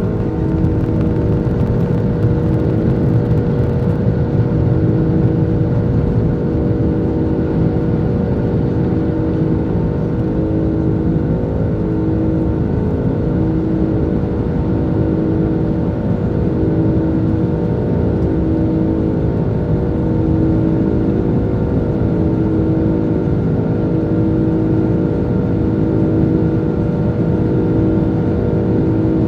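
Airbus A330 jet engines droning steadily as heard inside the cabin, a constant roar with several steady humming tones over it.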